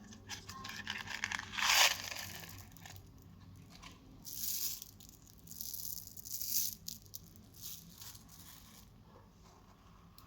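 Plastic candy packaging crinkling and tearing in several short bursts among small clicks, the loudest about two seconds in.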